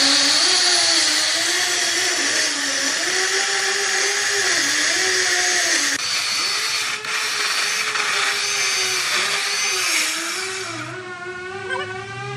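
A power tool running steadily as it works wood, cutting off about eleven seconds in. Background music plays underneath.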